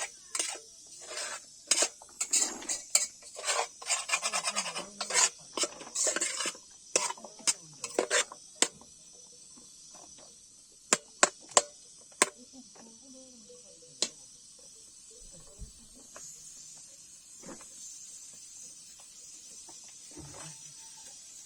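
Utensil scraping and clinking against a cooking pot, a quick run of strokes for the first nine seconds or so, then a few separate clinks.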